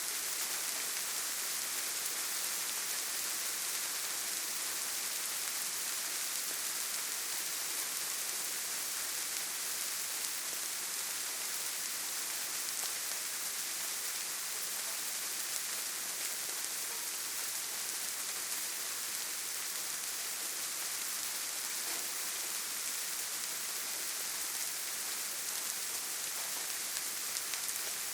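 Steady rain: an even hiss with fine drop ticks running through it.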